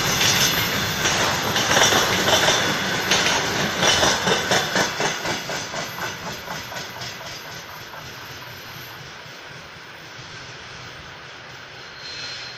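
Wheels of a freight train of container flatcars clattering over the rail joints as the last wagons pass and draw away. The clickety-clack is loudest at first, then fades out over the first several seconds.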